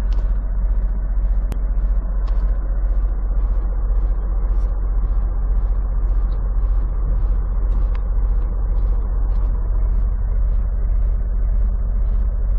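Semi truck's diesel engine idling steadily, heard from inside the cab as a constant low rumble. A faint regular ticking runs through it at about one and a half ticks a second.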